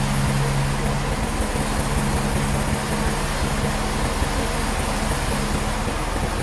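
Sawmill machinery running steadily: a constant mechanical noise with a low hum that fades out about two-thirds of the way through.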